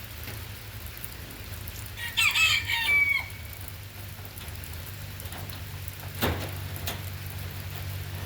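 A rooster crowing once, about two seconds in, lasting just over a second, over a steady low hum and light rain. A single sharp knock follows later.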